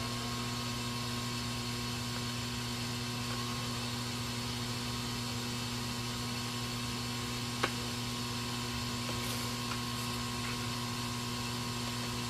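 Steady electrical mains hum with a faint high whine, and a single sharp click about seven and a half seconds in.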